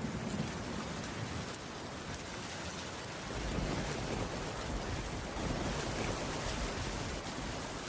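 Steady rain falling, with a low rumble of thunder that swells about three seconds in.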